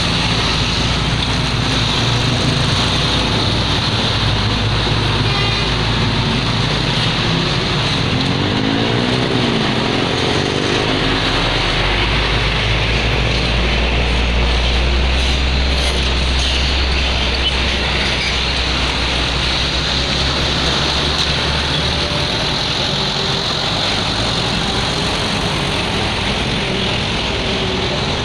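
Road traffic with heavy vehicles passing close by: a steady engine rumble and tyre noise, with one vehicle's engine note sweeping past about nine seconds in.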